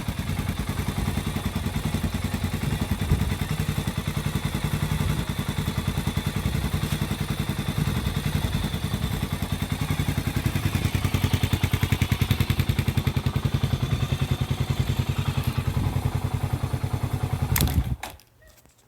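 Honda CB400SS single-cylinder engine idling through a Moriwaki short full exhaust, a steady, even beat of exhaust pulses. It shuts off abruptly about a second before the end, just after a sharp click.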